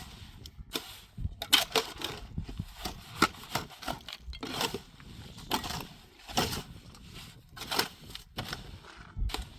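Irregular scraping and crunching strokes, a dozen or more, some quick and close together, with a low rumble between them.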